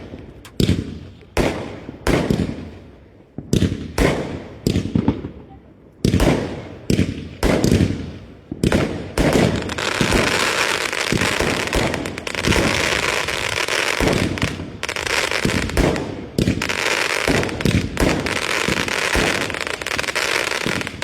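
Fireworks going off: a rapid string of sharp bangs, about one or two a second. About halfway through they give way to a dense, continuous crackling barrage with bangs mixed in.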